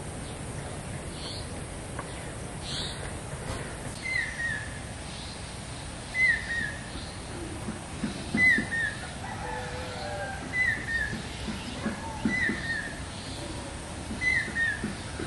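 Birds calling in the open: a short, falling two-note call repeated about every two seconds, starting about four seconds in, over a steady background hiss.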